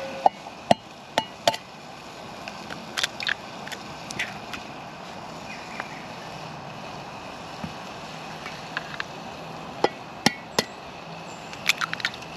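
Scattered sharp knocks and clinks from camp gear being handled, several in quick clusters near the start and near the end, over a steady background hiss.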